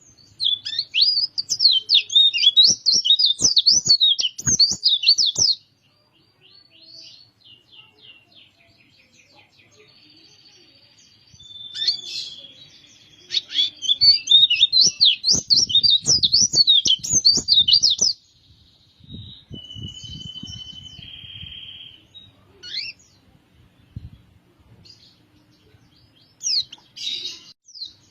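A pleci (white-eye) singing: two long bursts of fast, high twittering warble, the first about five seconds and the second about four seconds long. Between them come softer chips and a short steady whistled note.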